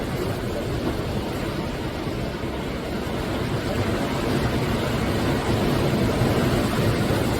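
Sea surf washing steadily onto the shore, swelling louder from about halfway through as a wave builds.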